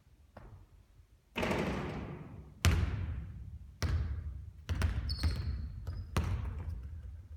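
A basketball bouncing on a hard court: about five sharp hits spaced roughly a second apart, each ringing off in the room. A longer, rougher hit comes about a second in, and a brief high squeak near the middle.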